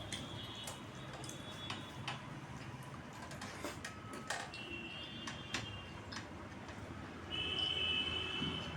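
Eating sounds: scattered small clicks and smacks of a person chewing a meal. A faint, steady high tone sounds for about a second near the end.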